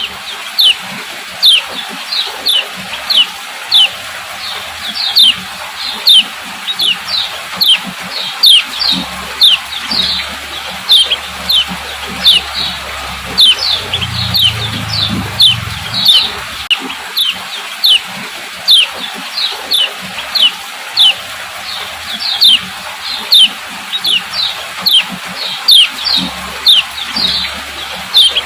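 Female yellow kecial (kecial kuning) giving its 'ciak ciak' call: a long run of short, high notes that slide downward, about two a second, over a steady hiss.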